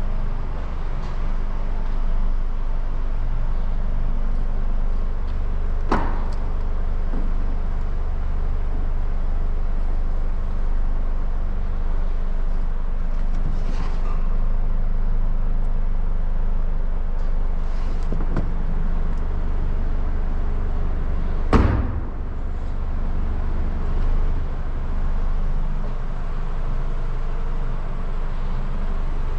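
A 2023 Subaru BRZ's 2.4-litre flat-four engine idling steadily, with a few clicks and knocks from the trunk lid being opened and shut; the loudest knock comes about three-quarters of the way through.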